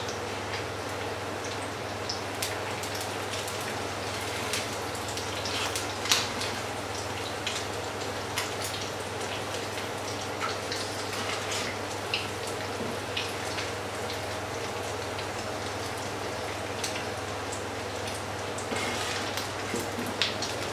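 Fritters frying in shallow oil in a pan: a steady sizzle with frequent pops and crackles, over a low steady hum.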